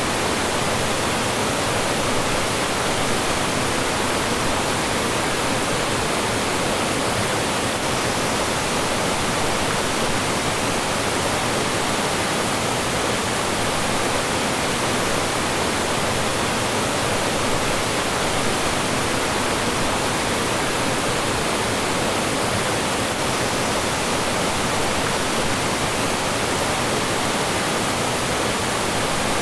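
Mountain stream rushing and falling over rocks: a steady, even rush of water with no breaks.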